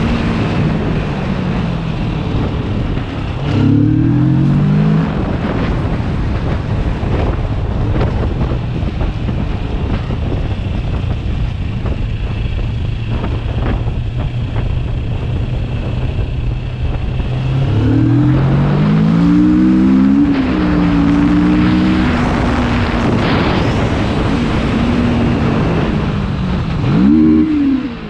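Motorcycle engine on the move, with wind noise on the microphone. It accelerates through the gears about three seconds in, holds a steady cruise, and accelerates again through several gear changes around eighteen to twenty-two seconds. Near the end the revs briefly rise and fall.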